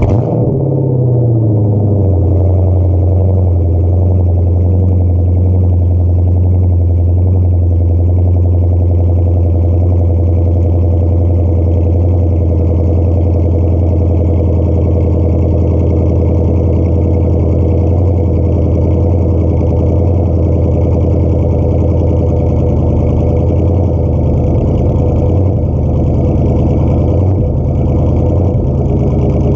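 Dodge Charger's Hemi V8 through an SLP LM1 cat-back exhaust, just started. Its pitch drops from the start-up flare to a steady, deep idle within the first two seconds, then holds there.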